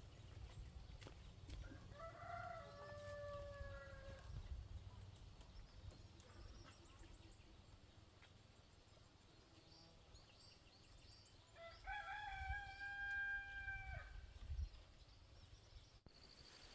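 A rooster crowing twice, faintly, each crow about two seconds long: the first a couple of seconds in, the second about twelve seconds in. A low rumble runs underneath.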